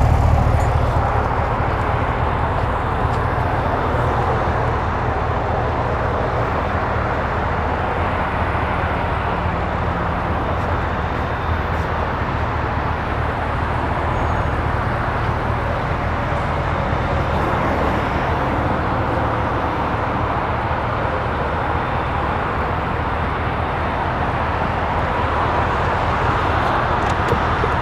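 2018 GMC Yukon Denali's 6.2-litre V8 idling steadily, a low, even exhaust note that is a little louder in the first second.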